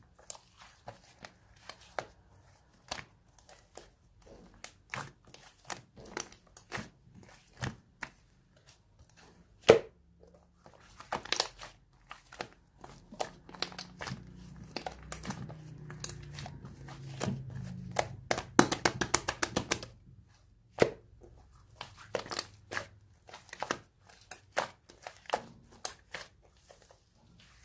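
Red slime being handled: sharp squishing clicks and crackles as it is pressed and pulled, with a quick run of rapid crackling about two-thirds of the way in.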